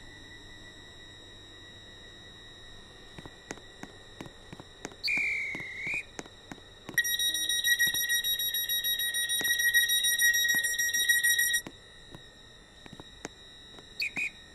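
Train's electronic warning buzzer: a short sliding tone, then a loud, rapidly pulsing buzz lasting about four and a half seconds that cuts off suddenly, over a steady high whine and scattered clicks, with two short beeps near the end.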